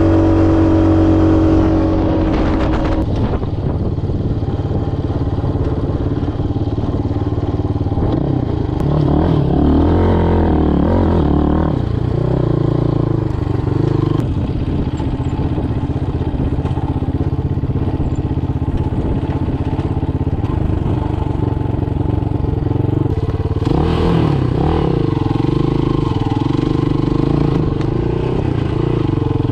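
Motoland Legend motorcycle engine running under way, its revs rising and falling twice: about eight to twelve seconds in, and again about twenty-four seconds in.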